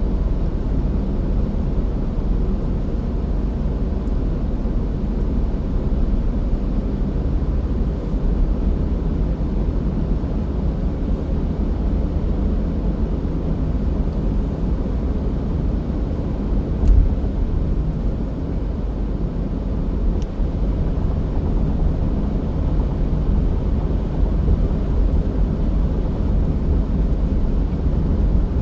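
Car driving along a road: steady low drone of engine and tyre noise, with one brief low thump a little past the middle.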